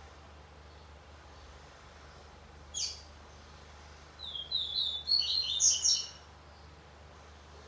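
Double-collared seedeater (coleiro) giving one short high call, then a quick run of chirping song notes about a second later, lasting roughly two seconds.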